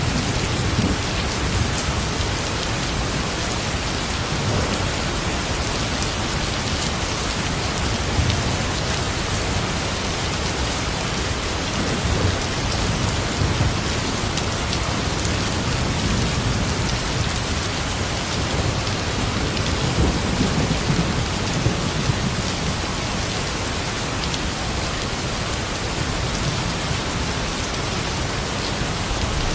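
Steady, dense rainfall, with soft low rumbles swelling up now and then.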